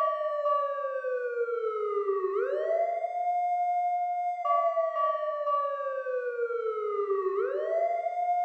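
Siren wailing in a slow repeating cycle: the pitch slides down for about two seconds, then sweeps quickly back up. This happens twice, with a steady higher tone sounding alongside between the sweeps.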